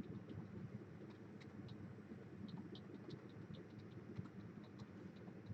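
Faint, irregular clicks of a computer keyboard and mouse over a low, steady room hum.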